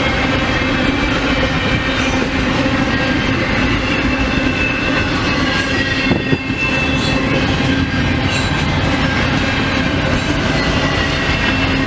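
Canadian National freight train rolling past, a steady run of railcar wheels on the rails with faint wheel squeal, and wind buffeting the microphone.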